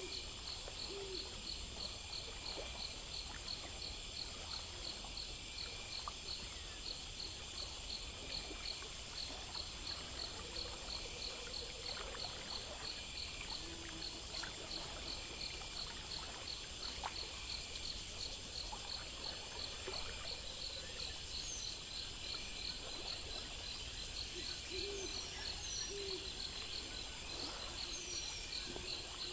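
Night-time nature ambience: insects chirp steadily at about three pulses a second over a soft even hiss. A few short low hoots sound at the start and again near the end.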